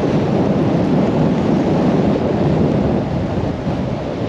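Gale-force wind buffeting the microphone over heavy rain: a steady, loud, low rushing rumble.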